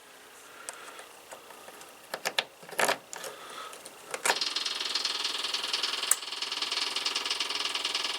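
A few clicks and knocks, then about four seconds in the starter of a Kubota BX2380 tractor's three-cylinder diesel begins cranking the cold engine with a steady, rapid whir.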